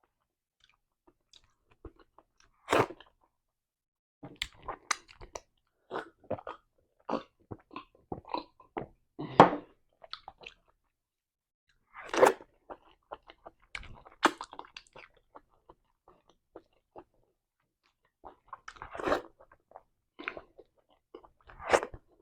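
Close-miked mouth sounds of eating eba and soup: wet chewing, smacking and biting noises in irregular clusters, with a short lull in the middle.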